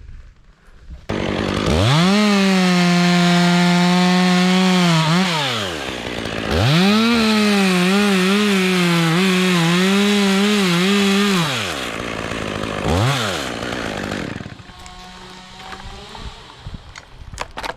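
Chainsaw revved up to full speed for about three seconds and dropped back, then revved again for about five seconds, its pitch wavering as it cuts into wood. A short blip of the throttle follows near the end.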